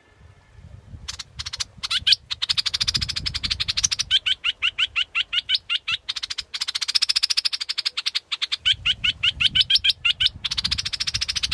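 Bulbul calling: fast chattering trills alternating with runs of quick rising notes, about four a second, starting about a second in.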